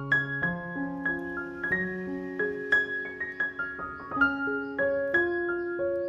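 Background piano music: a gentle melody of plucked-sounding struck notes over sustained bass notes.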